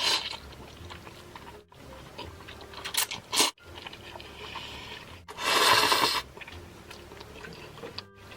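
Close-miked eating of noodles, chewing and slurping, in several short clips cut together. The loudest burst lasts about a second, around two-thirds of the way through.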